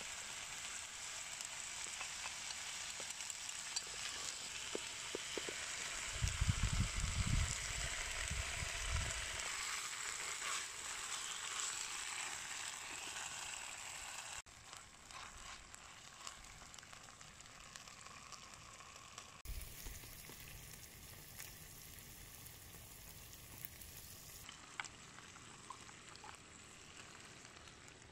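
Sliced pork and cabbage sizzling in a frying pan over a charcoal fire, stirred now and then with chopsticks. The sizzle drops quieter about halfway through, and a low rumble comes for a few seconds about six seconds in.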